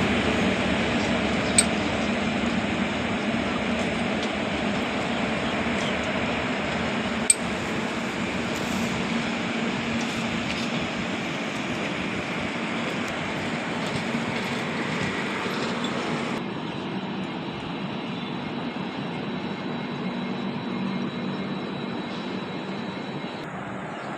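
Train running on the track: a steady rumble and rattle of wheels and coaches that slowly fades, with two sharp clicks, one about a second and a half in and one about seven seconds in.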